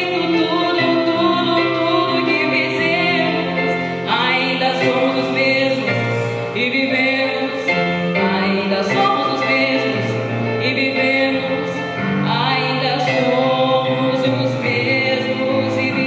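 A singer sustaining long notes with vibrato over instrumental accompaniment with changing bass notes.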